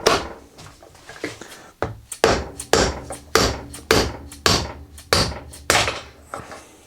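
Hammer blows on a spark plug socket used as a drift, driving the old wheel bearing out of a 1962 KTM Ponny scooter's front hub. About nine sharp, evenly spaced strikes, roughly two a second, each with a short ring.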